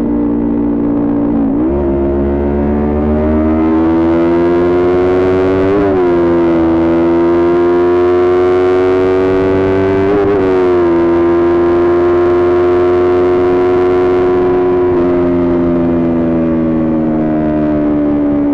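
Kawasaki Ninja 400 parallel-twin engine through its aftermarket Coffman exhaust, held at high revs while riding. The note climbs slowly, with brief dips and recoveries about 1.5, 6 and 10.5 seconds in, then eases down near the end.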